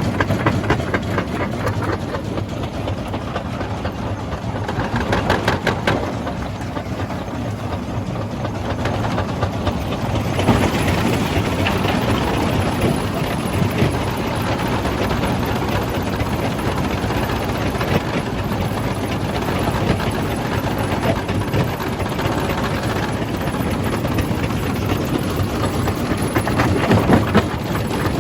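Jaw crusher running and crushing rock: a steady low machine drone under a continuous dense rattle and cracking of stone.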